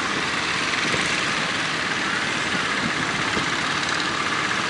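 Fishing boat engines running steadily under a constant rushing noise.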